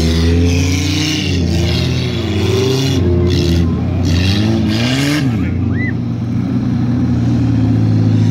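Scrap race cars' engines revving hard on a dirt track, their pitch rising and falling as they accelerate and ease off between about one and five seconds in, over a steady low engine drone.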